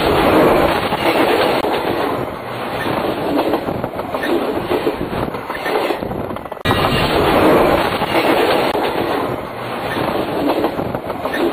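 Railway cars rolling directly over the track from just beneath the train: a loud, dense rumble and clatter of steel wheels on the rails. The sound breaks off abruptly about two-thirds of the way through and starts again at full loudness.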